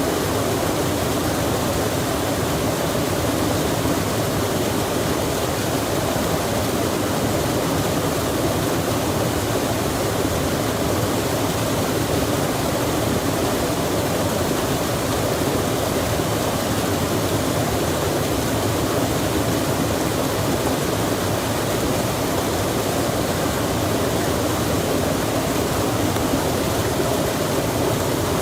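Steady rush of a stream with rain falling, an even unbroken noise.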